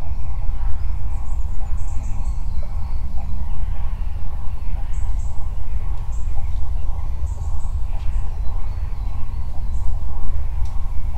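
Small birds chirping in short high calls several times, over a loud, steady low rumble.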